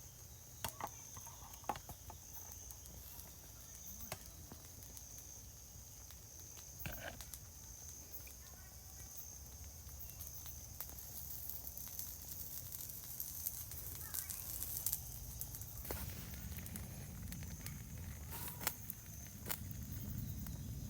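Outdoor forest ambience at a riverbank: a steady high-pitched insect drone, a low rumble, and scattered clicks and crackles. Faint short bird-like calls come through now and then.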